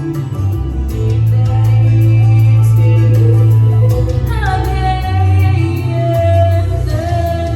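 A woman singing long, held notes of a pop ballad over a backing track with a strong bass line and a steady beat.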